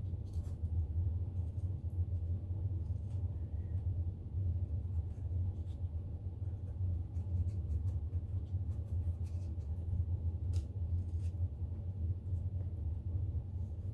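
A steady low hum, with faint, scratchy paintbrush strokes on paper now and then.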